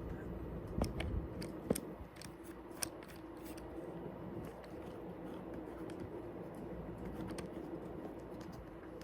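Hunter WhisperWind2000 ceiling fan motor running with a steady hum, with a few sharp clicks and knocks in the first three seconds.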